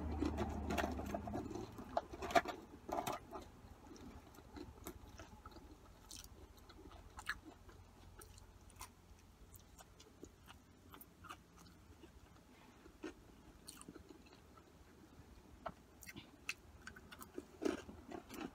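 A person chewing mouthfuls of cheese-topped curly fries, with scattered wet smacks and clicks, louder in the first few seconds and faint after.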